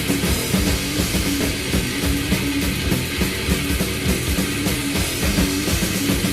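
Thrash/death metal recording: distorted guitars and bass over fast, dense drumming with rapid kick-drum hits.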